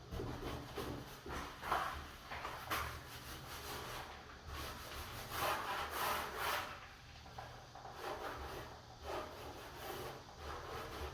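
Irregular rubbing strokes on wood, a hand tool or abrasive worked back and forth over the door's surface.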